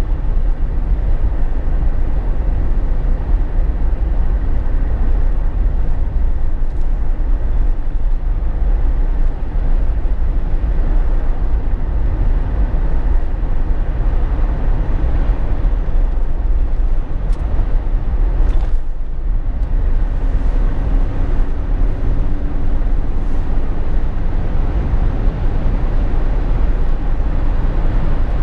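Steady low rumble of road and wind noise inside the cabin of a Jeep Wrangler JK while it drives. There is a brief dip about two-thirds of the way through, followed by a faint steady hum for a few seconds.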